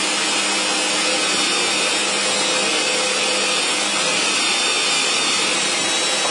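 Electric power tool running steadily at a constant pitch while working aluminum U-section.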